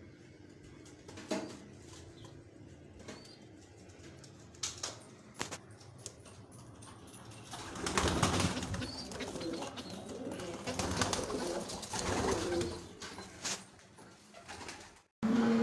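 Domestic pigeons cooing, faint at first with a few light taps, then louder and more continuous from about halfway through.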